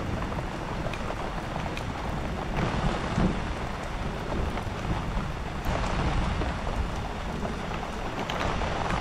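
Heavy thunderstorm rain falling as a steady, even hiss, with scattered ticks of individual drops.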